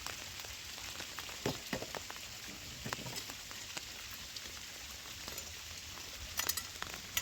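Steady rain falling and pattering on surfaces, with a few louder drops or taps standing out now and then.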